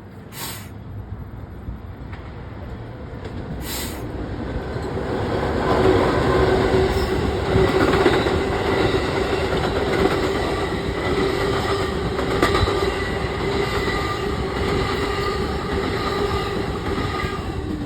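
Train rolling past close by: the rumble builds over the first few seconds and then holds steady, with a steady metallic wheel squeal running over it.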